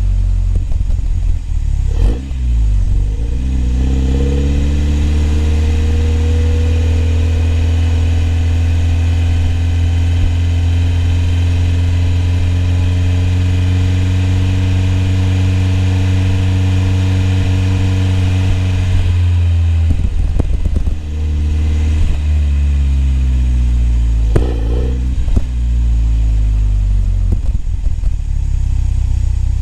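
BMW E30 M3's four-cylinder engine running under way. Its note climbs over a few seconds and holds steady for a long stretch. It then drops off about two-thirds of the way through and rises and falls again in shorter sweeps near the end.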